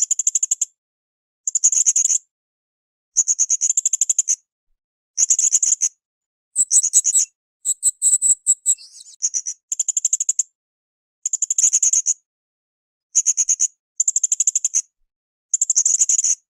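Blue-crowned hanging parrot (srindit) calling in rapid, high-pitched chattering trills: short bursts of about a second, repeated every second or two, with a few sharper sliding chirps about seven to nine seconds in.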